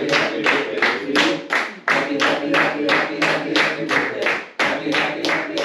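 Steady rhythmic hand clapping, about three claps a second, with a singing voice over it.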